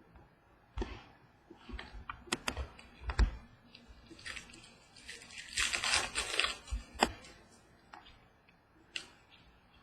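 Football trading cards being handled and flipped through by hand: light taps and clicks, then a few seconds of rustling in the middle.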